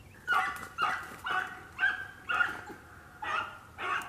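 Rabbit-hunting dogs tonguing on a scent trail, giving repeated calls about two a second that begin shortly after the start: the dogs are running a rabbit.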